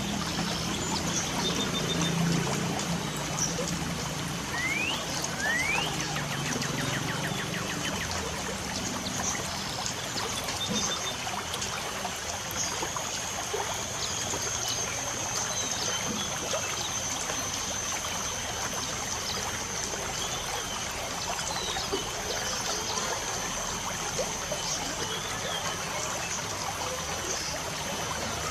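Steady patter of light rain with birds chirping over it, including two quick rising whistles about five seconds in. A thin high steady note joins from about halfway through.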